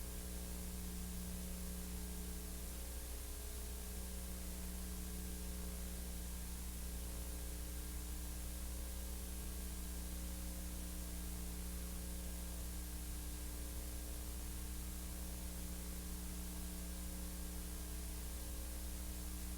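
Steady electrical hum with a constant hiss of background noise, unchanging throughout; no other sound.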